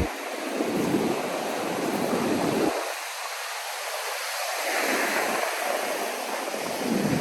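Ocean surf washing onto a sandy beach, rising and falling in swells.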